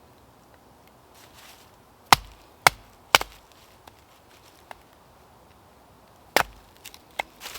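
Sharp chopping strikes on wood: three blows about half a second apart, a fourth a few seconds later, then two lighter knocks.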